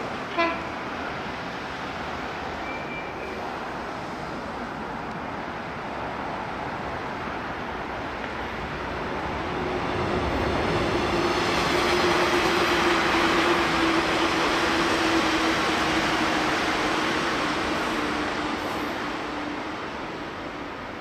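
A train gives a short horn toot, then passes: its running noise swells to a peak about halfway through and fades away, with a steady motor whine that slowly drops in pitch.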